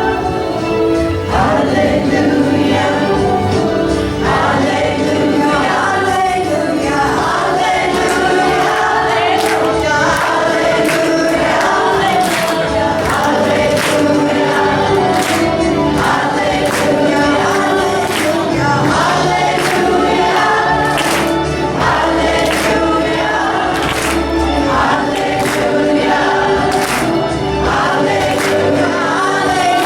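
Choir singing with instrumental accompaniment and a steady percussive beat.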